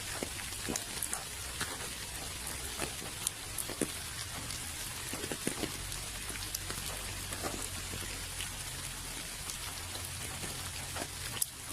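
Steady rain falling, with individual drops landing as scattered sharp ticks over an even hiss and a low, steady rumble underneath.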